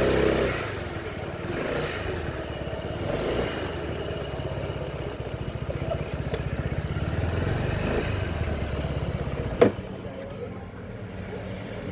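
Motorcycle engine running with a rapid pulsing beat. A sharp click comes near the end, after which the engine sound drops away.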